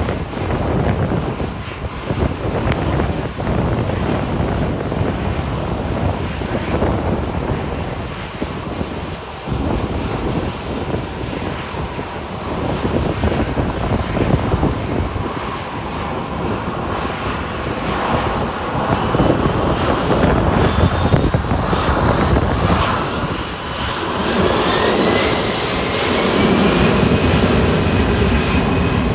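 Airliner engines building up for a departure: a rising whine climbs over the second half and a heavy engine rumble grows louder near the end, with wind gusting on the microphone throughout.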